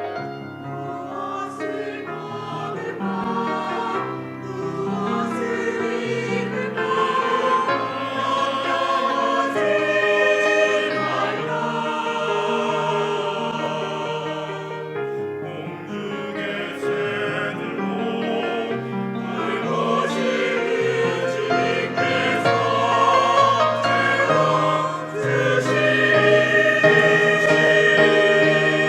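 Church choir singing a hymn in Korean, the voices in sustained chords over keyboard accompaniment.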